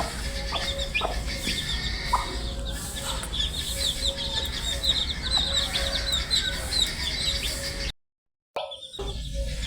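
A brood of baby chicks peeping continuously: many short, high, falling peeps over a low steady hum. The sound cuts out completely for about half a second near the end, then resumes.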